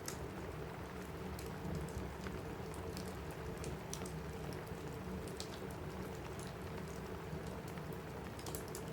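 Steady rain on a cabin roof, with the scattered, irregular sharp pops of a crackling wood fire in a fireplace.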